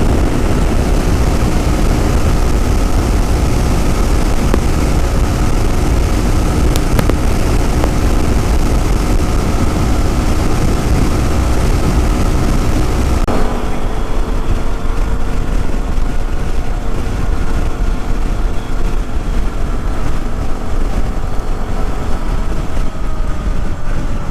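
Yamaha WR250R's single-cylinder four-stroke engine running at a steady cruising speed on the highway, under heavy wind rumble on the microphone. About halfway through, the hiss abruptly becomes duller.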